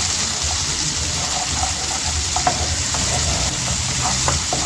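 Crushed garlic sizzling in melted butter in a pan as it is stirred: a steady hiss with small scattered crackles.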